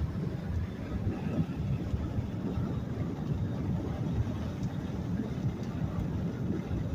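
Car driving, heard from inside the cabin: a steady low rumble of tyre and engine noise.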